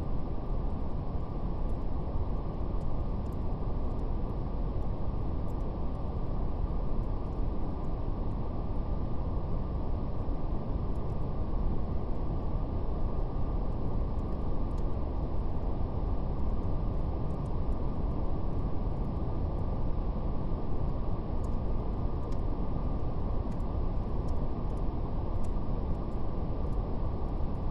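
Steady brown noise: a deep, even hiss with nothing above about 1 kHz, and the faint, scattered crackle of a fire ticking over it now and then.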